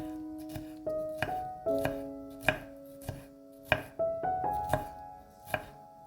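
Knife chopping food on a cutting board in irregular strokes, about one or two a second, over soft piano background music.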